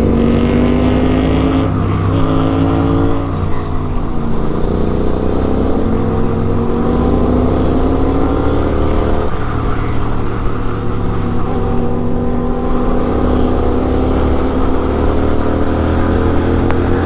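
Sport motorcycle engine and exhaust running hard under acceleration, its pitch climbing steadily and dropping back at upshifts about two seconds in and again about nine seconds in, with wind rush over the top.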